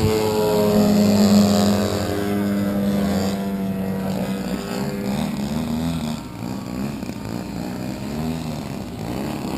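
Large radio-controlled aerobatic model airplane engines running in flight. The engine note holds steady and loudest for the first couple of seconds, then wavers up and down in pitch as the planes manoeuvre.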